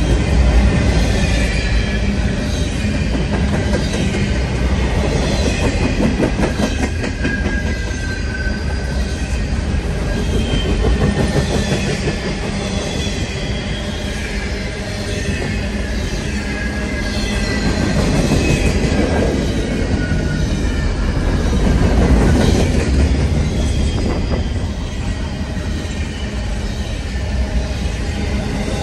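Freight train's intermodal cars rolling past, a continuous rumble of wheels on rail with faint wheel squeal coming and going.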